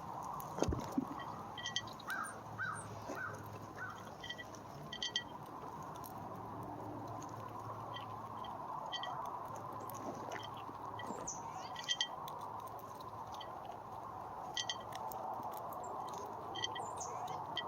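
Scattered short chirps and sharp clicks from small backyard animals, with a quick run of four short notes about two seconds in, over a steady low hum.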